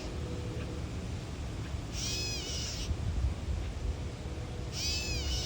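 Gray catbird giving two cat-like mewing calls, each under a second and about three seconds apart: the bird's alarm while protecting its nest.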